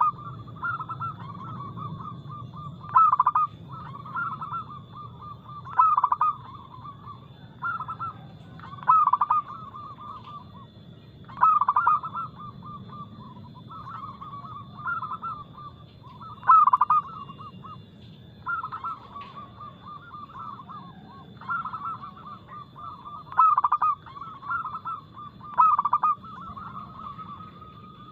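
Zebra dove (perkutut) cooing: a phrase of quick staccato notes repeated about every two to three seconds, each phrase opening with a loud accented note.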